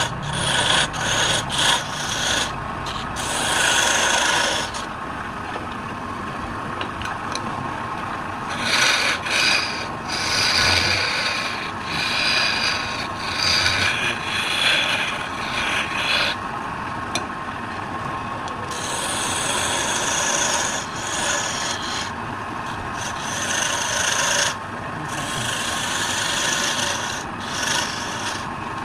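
Wood lathe running with a tool working against the spinning wood: a continuous rasping hiss that swells and eases every few seconds.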